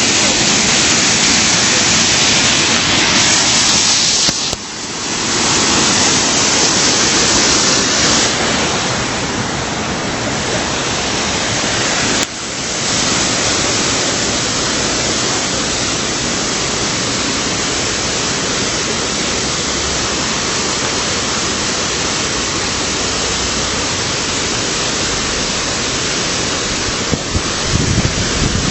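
Artificial waterfall's water falling, a steady loud rush of noise that drops briefly twice, about four and twelve seconds in.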